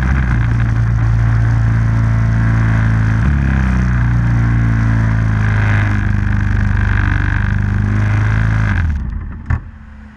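Small off-road vehicle engine running steadily with a step in pitch about three seconds in, then cutting out near the end, followed by a single knock.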